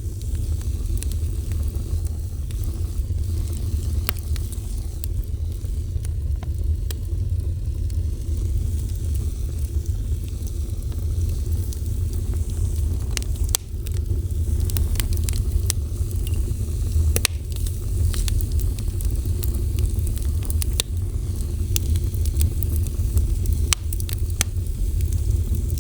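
Wood fire burning, with a steady low rumble of the flames and sharp, scattered crackles and pops of the burning wood, a few each second.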